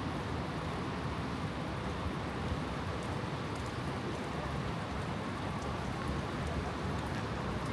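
Steady rain falling in a city street, with faint scattered ticks over an even hiss.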